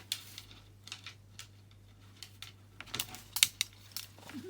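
Irregular sharp clicks and taps of a parrot moving about inside a wardrobe, busiest about three seconds in.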